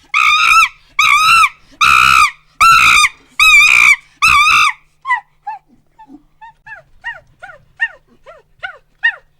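Monkey screaming: about six loud, drawn-out shrieks in quick succession, then a run of shorter, quieter calls that each fall in pitch, about two a second.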